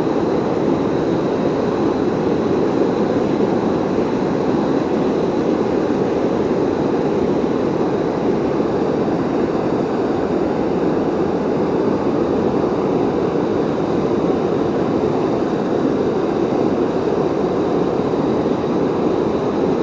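Steady rush of water pouring over a waterfall, a continuous even roar with no let-up.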